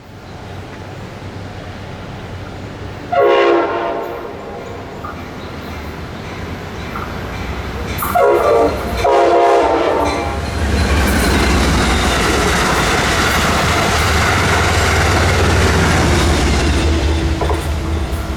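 Passenger train sounding its horn three times: one blast about three seconds in, then two more close together around eight and nine seconds. The train then passes close by, with a loud steady rumble and clatter of wheels on the rails.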